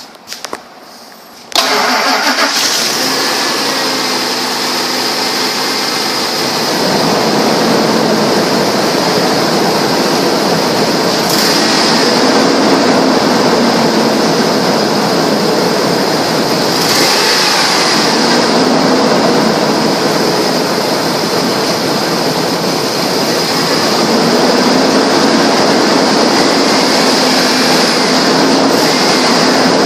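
2002 Ford F-150's engine starting about a second and a half in, then running steadily, its pitch rising and falling slightly a few times.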